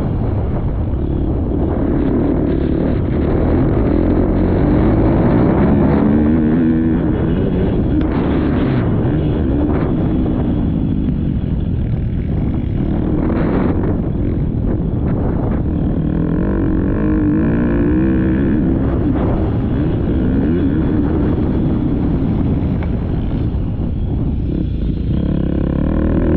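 Motocross dirt bike engine revving hard and easing off again and again, its pitch rising and falling as the rider works the throttle and gears around the track.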